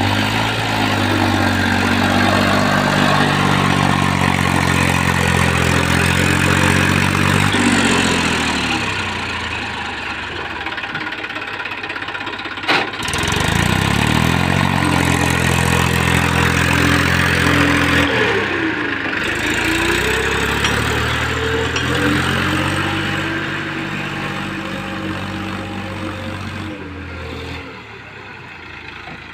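Sonalika Tiger tractor's diesel engine running under load, its revs sagging and picking up again twice, with one sharp click about 13 seconds in. It grows quieter near the end.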